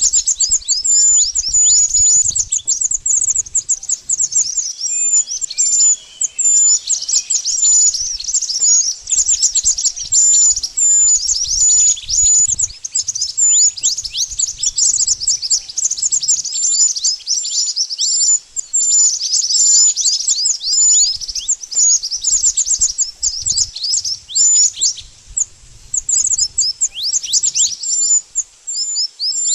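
Mantenan bird song, a lure call for bird trapping: a continuous, rapid stream of high-pitched chirps, each a quick downward sweep, running on without a break.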